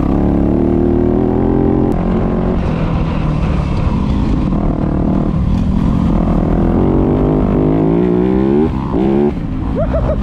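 Dirt bike engine under way on a trail, its pitch repeatedly climbing as it revs and dropping as it shifts or backs off, with a brief dip about nine seconds in before it revs up again.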